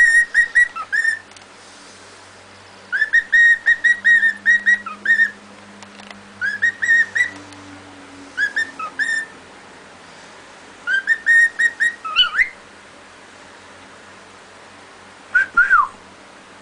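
Pet cockatiel whistling its song in short phrases of quick, repeated high whistled notes with pauses between them, the last phrase ending in a falling glide.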